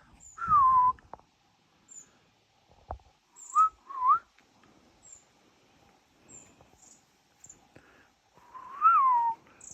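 A person whistling short sliding notes to small songbirds: a falling whistle, then two short rising ones, then a rise-and-fall. Thin, high bird chips sound faintly between them, and there is a single soft knock about three seconds in.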